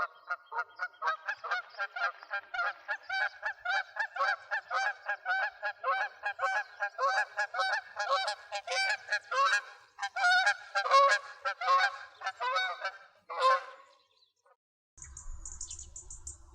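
Migratory birds calling in a quick, unbroken series of loud, pitched calls, about three a second with several overlapping, stopping about fourteen seconds in. About a second later a different recording begins: a low hum with short high chirps.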